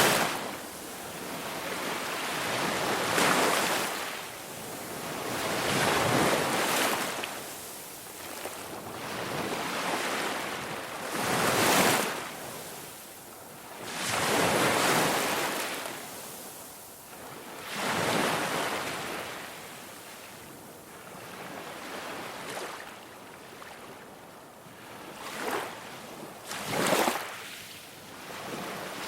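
Ocean surf: waves washing in and breaking in slow swells, one about every three seconds, with a couple of sharper crashes near the end.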